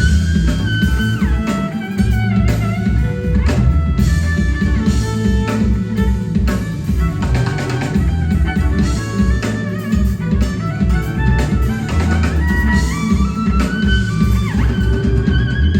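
A live rock band playing: a guitar melody with sliding notes over drum kit and bass.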